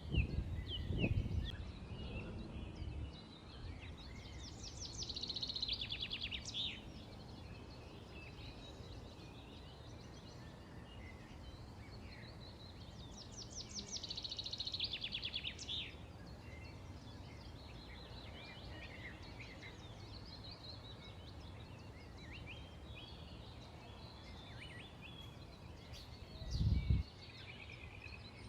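Several small birds chirping and calling over a steady outdoor background, with two rapid, louder trills about five seconds in and again around fourteen seconds. Brief low rumbles come at the start and shortly before the end.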